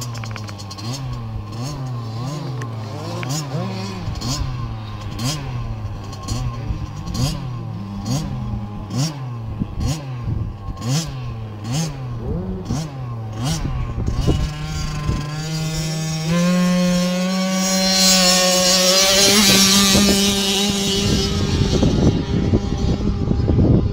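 Motocross motorcycle engine, its revs rising and falling about once a second, then a louder bike revving up in steps and holding high revs for several seconds before it passes off into noise near the end.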